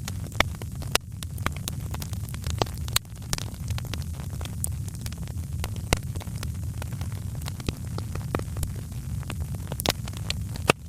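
Wood fire crackling: irregular sharp snaps and pops, a few louder than the rest, over a steady low rumble of the flames.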